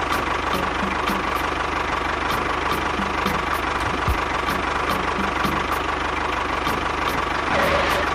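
A small motor running steadily at an even speed, with a faint steady whine and a light regular ticking.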